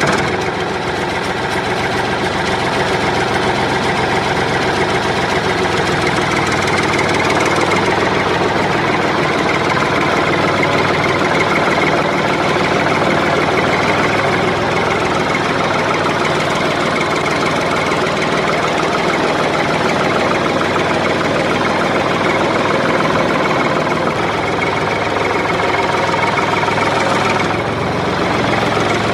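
An engine running steadily at idle, with a knocking clatter.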